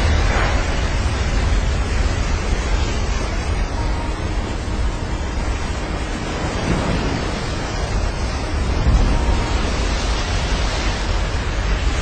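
Big waves surging and breaking in a rough sea, with heavy wind buffeting the microphone as a steady low rumble under the rush of water.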